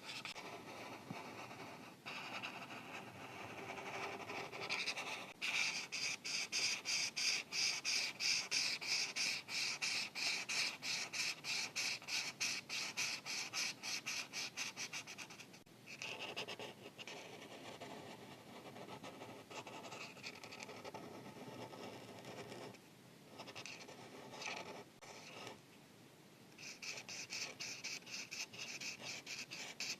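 Felt-tip marker coloring on paper in rapid back-and-forth strokes, a steady scratchy rubbing. It goes quieter and more broken for several seconds past the middle, then the quick strokes start again near the end.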